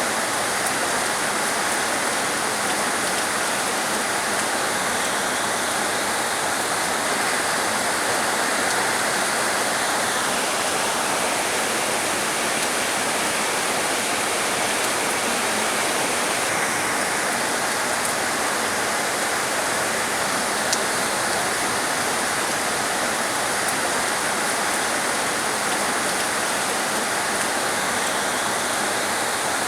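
Heavy rain falling steadily, a dense even hiss; its higher part thins for a few seconds about a third of the way through.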